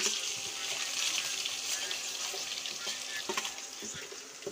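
Hot oil sizzling in a kadhai as onion fries with whole spices, a steady hiss that eases slightly. A few light clicks of a stirring spoon against the pan come about three to four seconds in.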